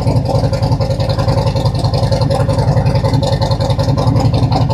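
Harley-Davidson V-twin motorcycle engine idling steadily with a fast, even pulse.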